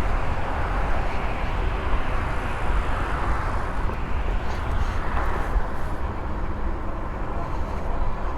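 Steady wind rush and road noise from an e-bike being ridden along, with a heavy low rumble.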